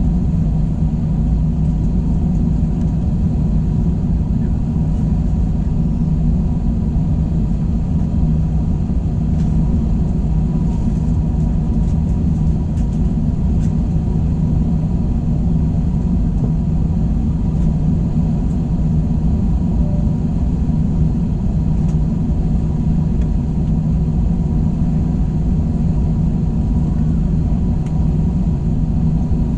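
Steady cabin hum and rumble of an Airbus A321 with its engines running at low, even power, heard from inside the passenger cabin.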